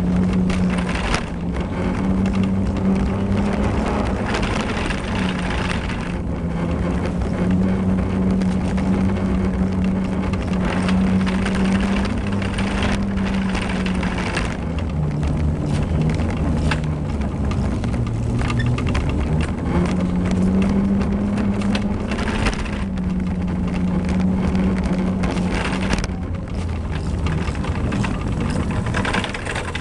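A man's voice droning a long, low, drawn-out "ehh" on one steady note. Each note is held for several seconds, with short breaks between them, and the pitch dips lower about halfway through. It sits over a steady rumble of traffic or a car.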